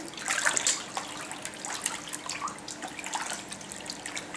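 Bathwater splashing and dripping in irregular small splashes.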